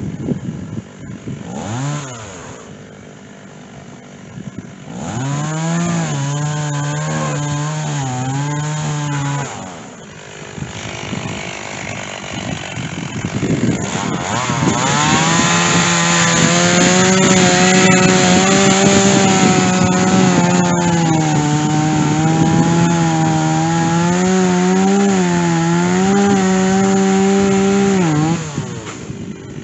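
Stihl chainsaw cutting through white oak with a dull chain. A brief rev and idle, then a short cut at full throttle about five seconds in, a drop back, and a long cut from about fifteen seconds in until near the end, the engine's pitch wavering under load.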